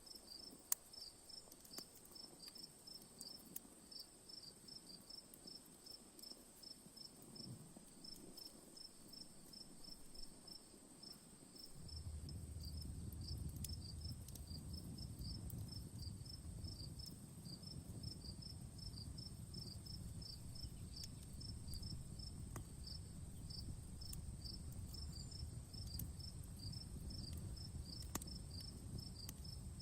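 Crickets chirping in an even, rapid pulse, about four chirps a second, over a steady high insect hum, with sparse sharp crackles from a wood campfire. About twelve seconds in, a low rumble comes up and stays.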